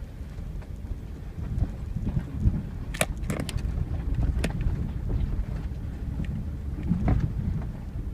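A pickup truck driving on a rough dirt road: a steady low rumble of engine, tyres and wind on the microphone, with a few sharp knocks and rattles as it hits bumps, a cluster of them about three seconds in and another near the end.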